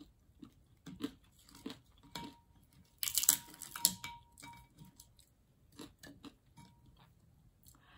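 Close-up chewing and crunching of crispy breaded fried meat, with scattered small clicks and crackles as it is pulled apart by hand and eaten. There is one louder crunchy burst about three seconds in.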